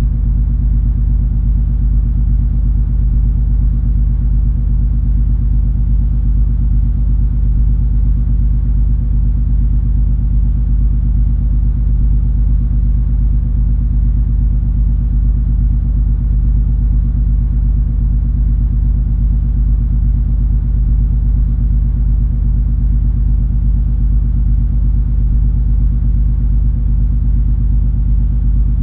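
Steady low drone of the cruise ferry MS Color Magic's engines and machinery, with a constant hum and no change in pitch or level.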